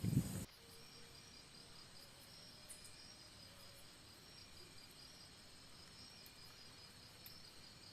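Faint, steady chorus of forest insects, crickets trilling, with a high pulsing trill that repeats evenly. A brief louder, low noise at the very start cuts off abruptly about half a second in.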